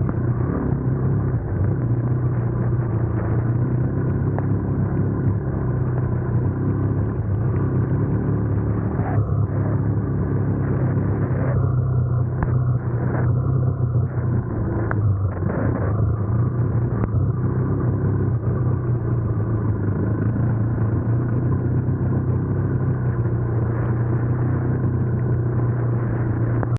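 Yamaha YFZ450R sport quad's engine running at steady revs, a continuous low rumble with no rise or fall in pitch.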